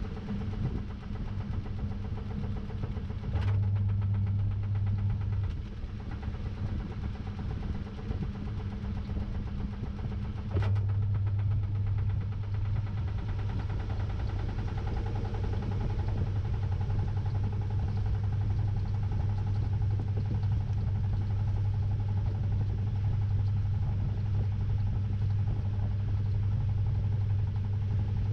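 Samsung 6.5 kg top-load washing machine's motor, heard from inside the tub, running with a steady hum. It clicks on about three seconds in and cuts out briefly, then clicks on again at about ten seconds and keeps running.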